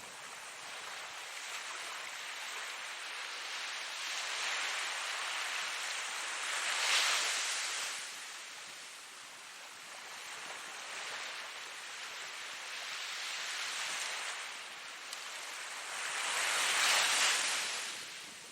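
Ocean surf: a continuous hiss of waves that swells twice as waves break, about seven seconds in and again near the end.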